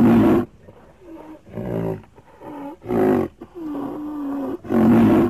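A large animal calling: about five loud, low, bellowing calls in a row, the fourth held longer on a steady note.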